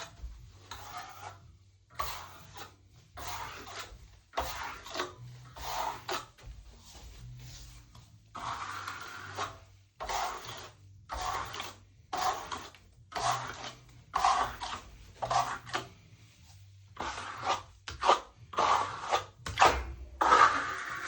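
Steel plastering trowel scraping over wet skim plaster, in a run of short irregular strokes about one to two a second.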